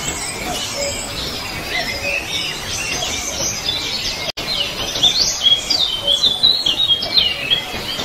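Several songbirds chirping and singing together in a busy chorus of high chirps. A brief break about four seconds in, after which louder, clearer whistled notes come in quick succession.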